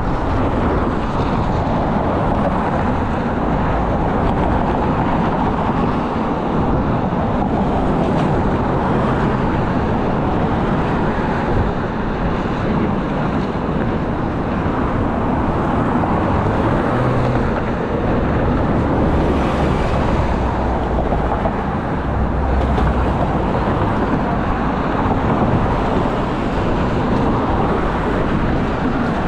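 Steady road-vehicle noise, a continuous rumble and hiss of moving traffic.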